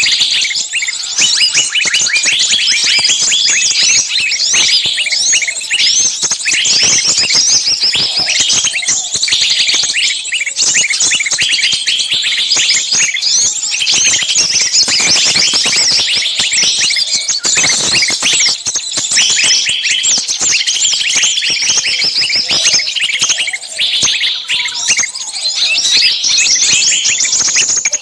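Many small birds chirping and twittering all at once in a dense, unbroken chorus of quick, high chirps.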